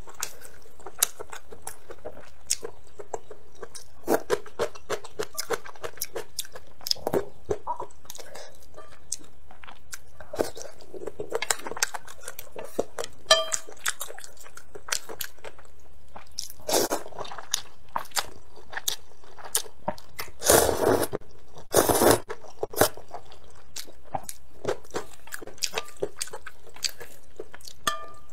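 Close-miked eating: wet chewing and biting of braised pork foot and wide sweet-potato-starch noodles, with many small crunchy clicks. Two louder, longer noisy sounds come about three quarters of the way through.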